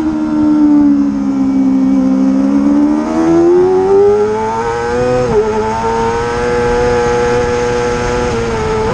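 Racing motorcycle engine at high revs on track. Its pitch falls as the bike slows, climbs again as it accelerates, dips sharply about five seconds in at a gear change, then holds nearly steady.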